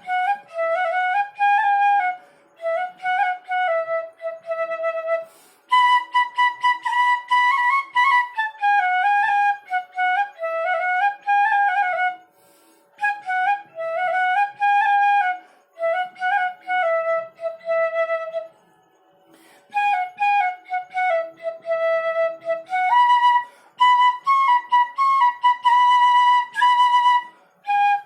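Bansuri, the Indian bamboo flute, playing the melody of a Hindi film song in flowing phrases, with short breaks between phrases.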